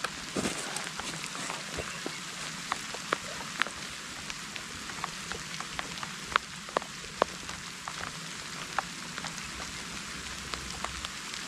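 Heavy rain falling steadily as a hiss, with sharp taps of single drops striking close by at an irregular few per second.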